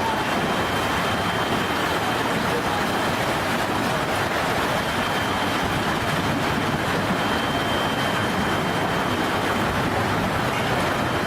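Storm wind and rain making a steady, even roar with no breaks.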